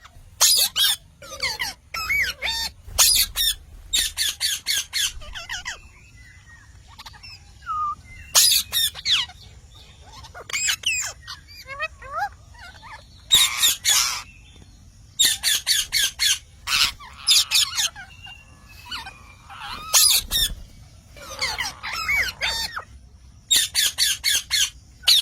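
Parrot squawking in loud clusters of quick, sharp calls, with softer chattering calls in between.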